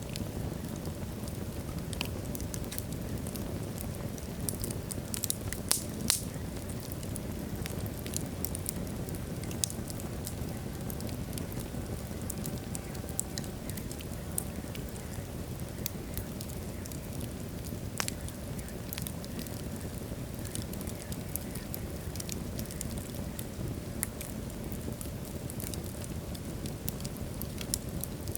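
Wood fire burning in a fireplace: a steady low rumble of flames with scattered crackles and sharp pops from the burning logs, a few louder pops about five to six seconds in.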